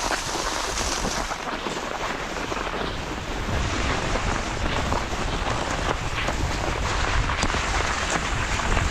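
Cross-country skis hissing and scraping over snow on a fast downhill run, with wind buffeting the microphone; the low wind rumble builds as speed picks up from about halfway in.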